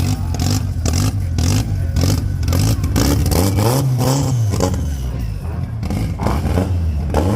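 Lancia Beta's engine running and being revved, its pitch rising and falling once about four seconds in, with repeated sharp cracks in the first few seconds.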